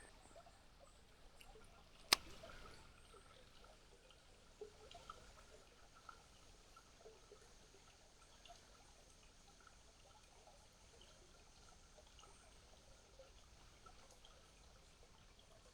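Faint trickle of a small creek's running water, with one sharp click about two seconds in.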